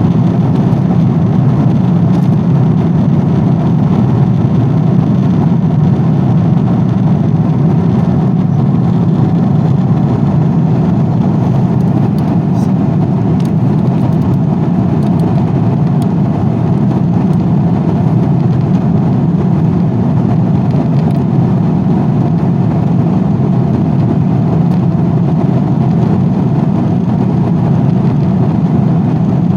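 Airplane cabin noise: a steady low drone of engines and rushing air, unchanging throughout, with a few faint ticks about halfway through.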